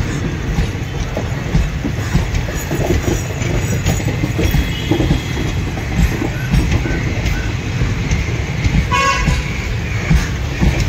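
Coaches of a passenger express rolling past close by: a steady heavy rumble with the rapid clatter of wheels on the rails. A short horn toot sounds about nine seconds in.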